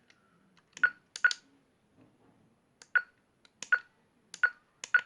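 Kvazar ARM metal detector giving short clicky beeps at irregular intervals, sometimes two close together. These are erratic false signals that persist with a second search coil connected, the same fault as with the first coil.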